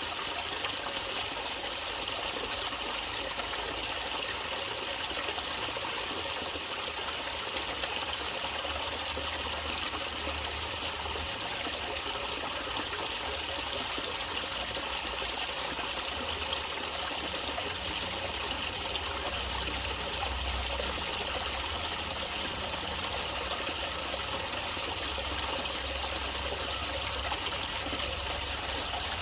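Running water of a natural stream, trickling and flowing steadily without a break.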